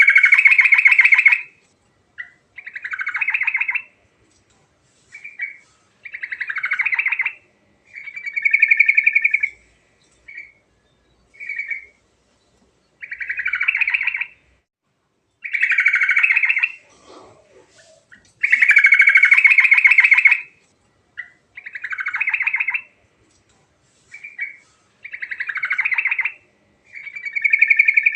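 Yellow-vented bulbul (trucukan) singing: about a dozen short, quick song phrases, each half a second to two seconds long, with brief pauses between them.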